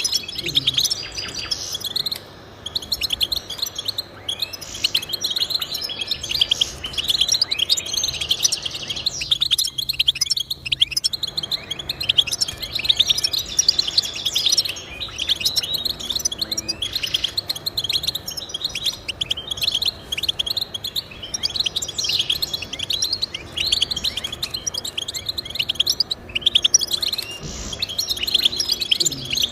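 Goldfinch singing: a fast, run-on twittering song of rapid high chirps and trills, broken by brief pauses a couple of seconds in and again about ten seconds in.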